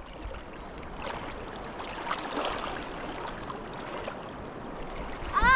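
Steady rush of flowing river water, with a few faint ticks in it.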